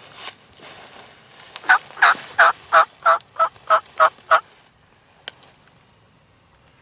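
A run of about nine turkey yelps, evenly spaced at roughly three a second and fading slightly toward the end. Soft rustling comes before them.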